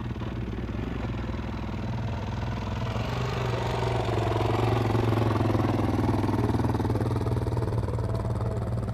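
A small off-road vehicle's engine running, growing louder about four seconds in and staying loud, over a steady low hum.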